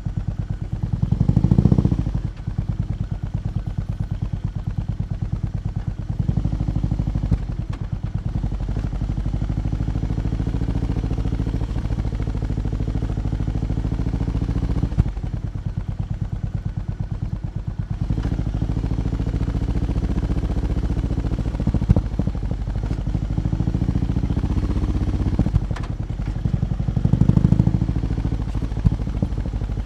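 BMW R18 B's big boxer twin idling with a steady, evenly pulsing exhaust note, blipped briefly once about a second and a half in and again near the end.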